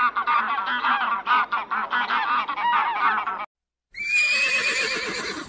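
Domestic geese honking, many short overlapping calls from a flock, which stop suddenly about three and a half seconds in. After a brief gap, a horse whinnies in one long call that falls in pitch and is cut off abruptly.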